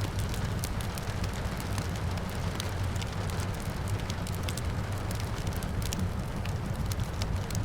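Wood fire crackling with frequent sharp pops over a steady low rumble, with rain falling steadily in the background.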